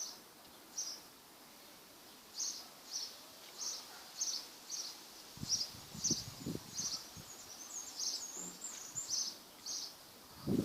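A small bird chirping over and over in short high chirps, about two a second, with a quicker twittering near the end. A few soft low thumps come about halfway through.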